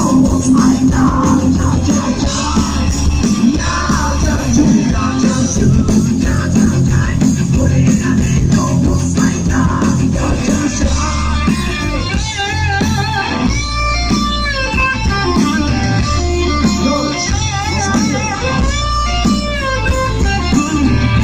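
Rock music with electric guitar and bass guitar playing. About halfway through, a melodic line with a wavering pitch comes in over the band.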